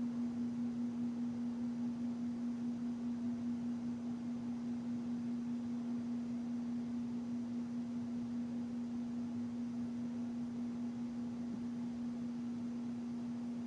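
Singing bowl ringing one low, steady tone with a slow wavering pulse that smooths out and slowly fades.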